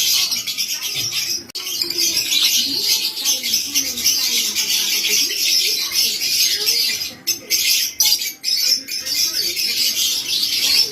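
Lovebirds chattering and squawking together in a shrill, dense, unbroken stream, with brief lulls about seven and eight seconds in.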